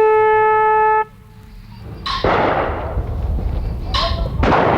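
A horn blast held for about a second and cut off sharply, then two shotgun shots about two seconds apart, each echoing away.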